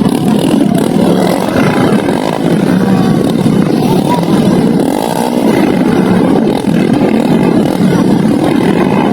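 Dirt bike engines running with a steady, even loudness.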